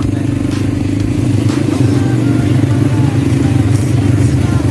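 ATV quad bike engines running steadily, getting a little louder from about a second and a half in.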